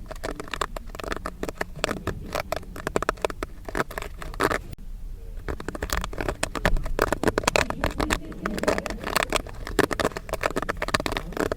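Popcorn kernels popping in quick, dense succession: a steady crackle of sharp pops that thins briefly about halfway through.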